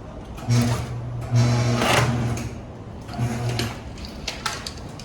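Pallet strapping machine's motor running in three short bursts as it works the strap, with a louder rasping burst about two seconds in and a few sharp clicks near the end.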